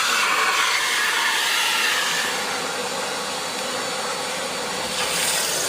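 STIHL wet and dry vacuum cleaner running, a steady rush of suction air that brightens slightly about five seconds in.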